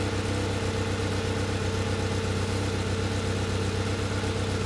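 Fiat Panda 4x4's small four-cylinder petrol engine idling steadily, heard from in front of the car. The owner says it has a small exhaust blow.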